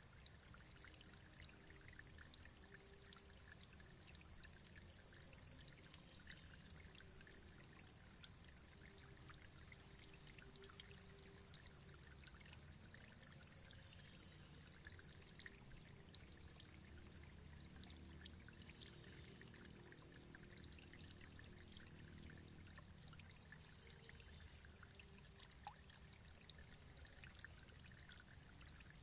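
Faint running water, a steady hiss with fine splashing that does not change.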